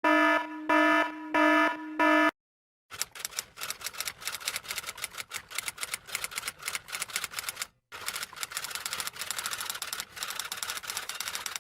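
Four short electronic beeps in quick succession, then a pause and a rapid, irregular clatter of keys like fast typing, broken once by a brief gap.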